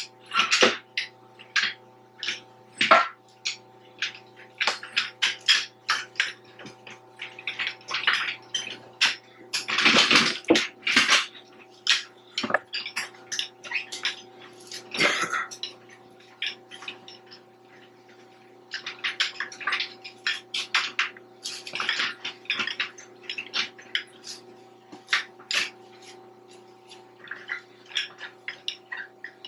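Irregular clinks, knocks and scrapes of hand tools on metal machine parts, in quick clusters, over a faint steady hum.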